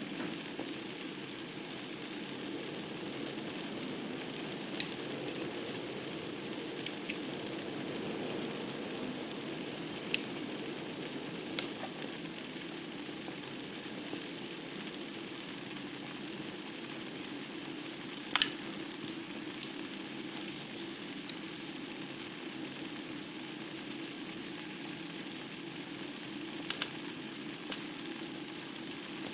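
Wood fire burning in a fireplace: a steady soft hiss with scattered sharp crackles and pops from the burning logs, the loudest about two-thirds of the way through.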